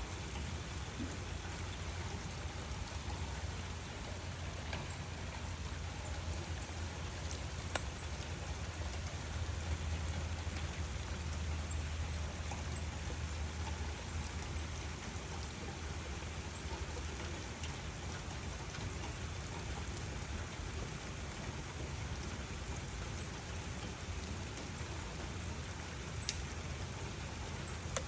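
Steady rain falling, with scattered drops ticking. A low rumble of distant thunder swells in the middle.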